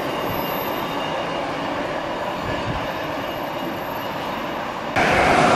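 Container freight train running away along the line, its wheel-on-rail rumble slowly fading, with faint high steady whines over it. About five seconds in the sound cuts abruptly to a louder, different background noise.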